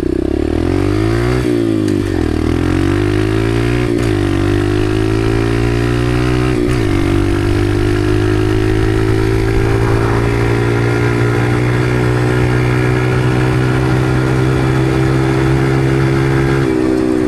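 Dirt bike engine accelerating through the gears: its pitch climbs and drops at three upshifts in the first seven seconds, then holds a steady high note at speed before falling as the throttle eases off near the end.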